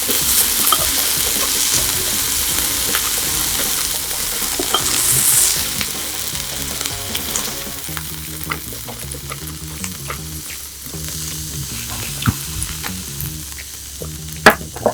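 Slices of Korean hanwoo beef sizzling on a hot grill, louder for the first six seconds or so and then quieter, with scattered small clicks and a sharp click near the end. Faint background music plays underneath.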